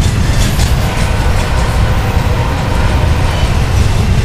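Double-stack intermodal well cars of a freight train rolling past close by: a loud, steady low rumble of wheels on rail.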